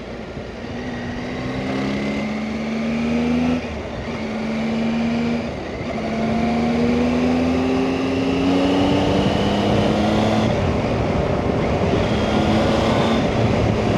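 Motorcycle engine pulling through the gears. Its pitch climbs, drops sharply at each upshift (about three times), and climbs again, with wind rushing past.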